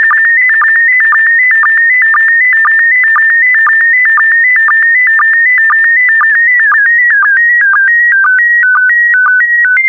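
Slow-scan TV signal in PD120 mode: a loud, shrill, warbling tone near 2 kHz that dips briefly about twice a second as each pair of image lines is sent. This is the last part of a picture being transmitted. About two-thirds of the way through, the line pattern gives way to a run of stepped, held beeps and then a steady high tone, as the transmission ends.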